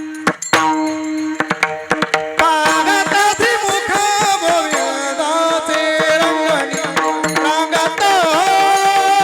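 Varkari kirtan music: mridang drum strokes over a steady held drone. About two seconds in, a voice starts singing a long, ornamented devotional line over them.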